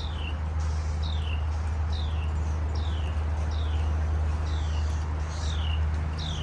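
A bird calling over and over, a short high chirp sliding downward about once a second, over a steady low rumble of wind on the microphone.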